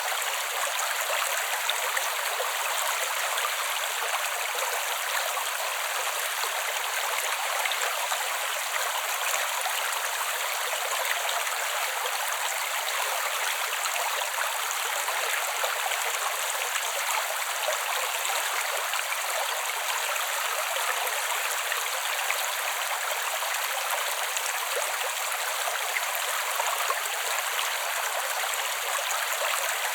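Creek water running steadily: an even, unbroken rush with no deep rumble.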